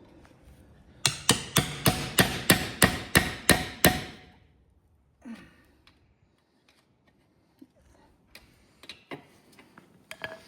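A quick run of about ten hammer blows on metal, roughly three a second, with a slight ring after each. A few lighter scattered knocks follow.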